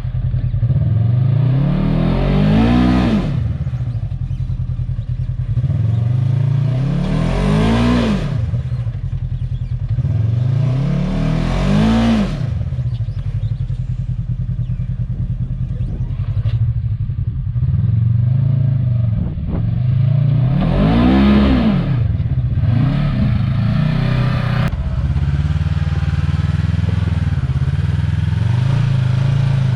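Side-by-side UTV engine being ridden off-road. The throttle is opened and eased off again and again, so the engine note climbs and falls several times, and it runs steadily in between.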